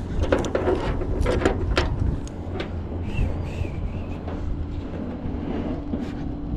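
Tow truck engine running steadily, with a quick series of metallic clanks and rattles in the first two seconds and a brief squeak about three seconds in.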